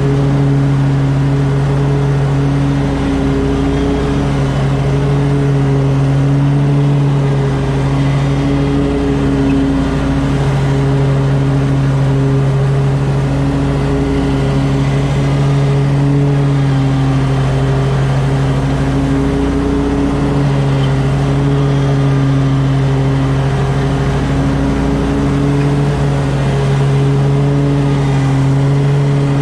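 Toro Z Master 4000 zero-turn mower engine running steadily while mowing, its pitch dipping slightly now and then.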